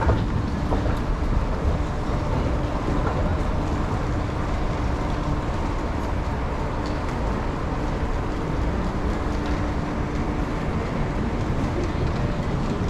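Steady rumble of vehicle noise with a faint steady hum, without any single standout event.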